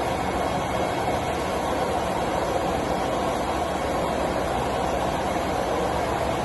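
CNC milling machine running: a steady, even noisy hum that does not change.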